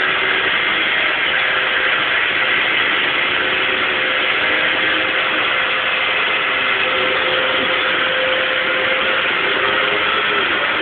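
Vacuum cleaner running steadily: a constant motor whine with a steady hum underneath and a rushing airflow noise, not changing pitch.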